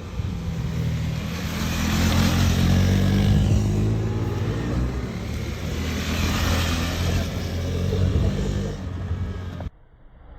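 KTM 390 Adventure's single-cylinder engine running and revving, swelling and easing in loudness; the sound cuts off abruptly near the end.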